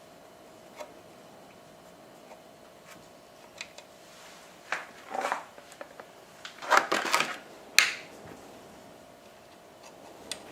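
Scattered clicks and two short bouts of clattering and knocking, as of parts or tools being handled on the sharpening machine during its repair, over a faint steady hum.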